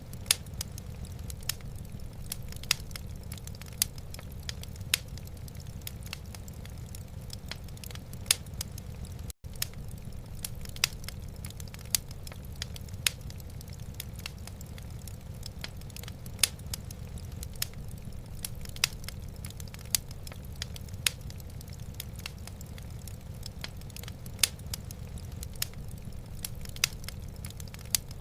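Wood fire in a fireplace crackling: irregular sharp pops and snaps, a few markedly louder, over a steady low rumble. The sound drops out for a moment about nine seconds in.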